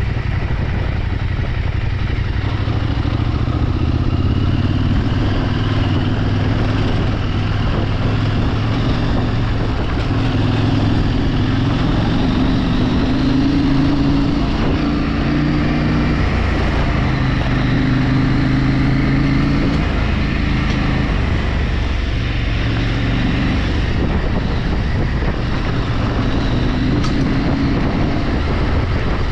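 A vehicle engine running while under way off-road. Its pitch shifts up and down every few seconds as the throttle and gears change, over a steady low rumble of wind and terrain.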